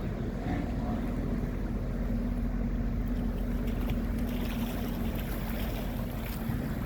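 Tugboat engine running with a steady low drone, with wind buffeting the microphone.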